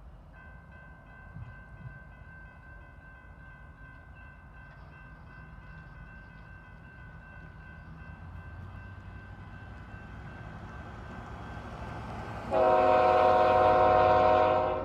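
Approaching BNSF freight locomotive, its low rumble building, then a loud air-horn blast of about two seconds near the end. A faint steady ringing tone runs underneath throughout.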